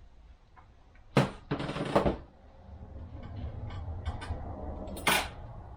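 Steel clutch plates for an automatic transmission clutch pack being tossed back in and clattering: a sharp clatter about a second in, a longer rattle right after, and one more clank near the end, over a low hum.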